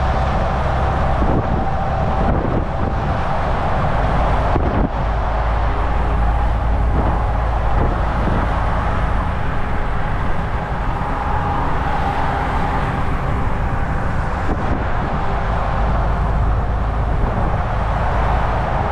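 Volvo VNL 760 semi truck cruising at highway speed: a steady engine drone with tyre and road noise, and a faint brief knock now and then.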